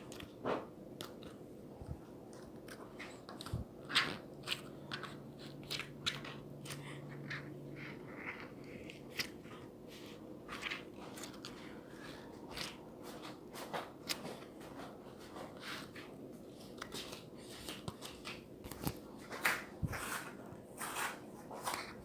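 Irregular crisp crunching and clicking, one sharp crackle after another at uneven gaps, over a faint steady hum.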